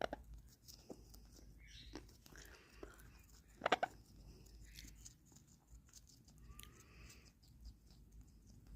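A pet parrot biting and crunching on a piece of carrot held out to it. Faint, scattered clicks and crunches, with one louder crunch about four seconds in.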